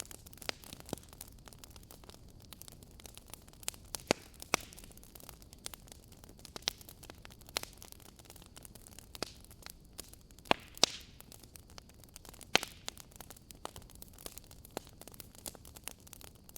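Wood fire crackling in a fireplace: irregular sharp pops and snaps over a soft hiss, with a few louder snaps about a quarter of the way in and again around two thirds through.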